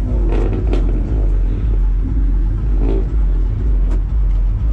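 Car engines idling with a steady low rumble, with brief snatches of people talking.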